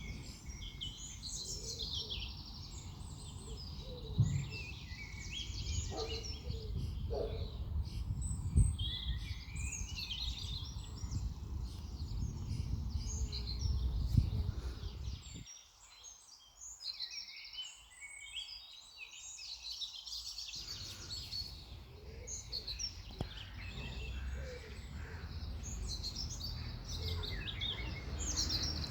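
Small garden birds chirping and singing, many short calls and trills overlapping, over a low rumble with a few knocks. The rumble drops away for about five seconds in the middle.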